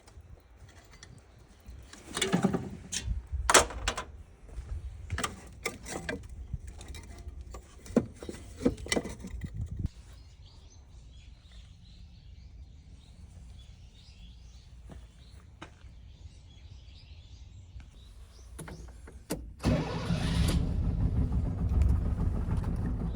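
Scattered knocks and clicks, then a quiet stretch with faint bird chirps. About twenty seconds in, the 1970 Mitsubishi Minica 360 GSS's 360 cc twin-carburettor engine starts and runs steadily.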